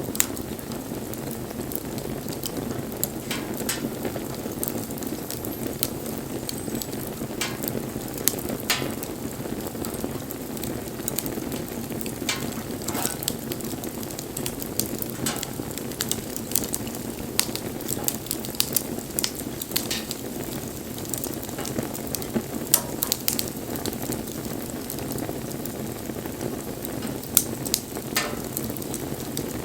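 Wood fire burning: a steady low rush of flame with irregular sharp crackles and pops from the burning wood.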